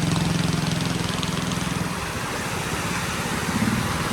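A small engine running steadily, with a steady rushing noise over it; the engine's low hum drops away about two seconds in.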